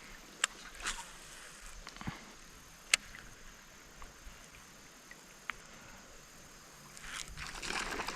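Light, scattered clicks and taps of fishing gear handled in a kayak, the sharpest about three seconds in. A louder, rustling, noisy stretch begins about seven seconds in.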